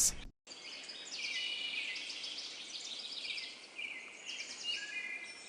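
Nature ambience of many small birds chirping and trilling in quick repeated notes over a soft hiss, starting about half a second in after a moment of silence.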